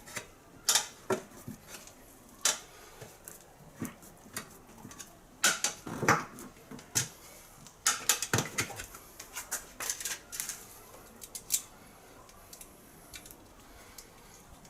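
Irregular metallic clicks and clanks of tools and parts being handled, bunched into quick clusters, with the last few seconds nearly still.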